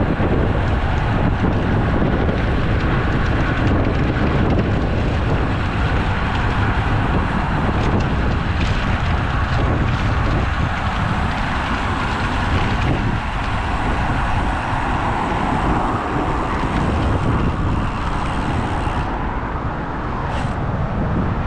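Steady wind rushing over the microphone and road noise while riding a road bike in traffic, dulling a little near the end.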